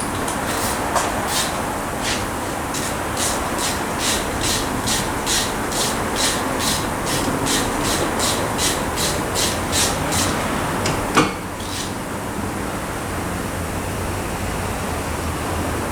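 A hand tool working metal in a regular rhythm, about two to three short rasping strokes a second for roughly ten seconds, then a single sharp knock.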